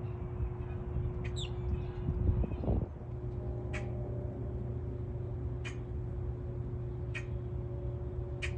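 A bird giving short, sharp calls about every second and a half, five in all, over a steady low background rumble.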